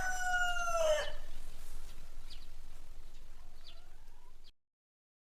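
Rooster crowing: the end of a long crow, its last note falling in pitch and ending about a second in, followed by a few faint short calls before the sound cuts off abruptly.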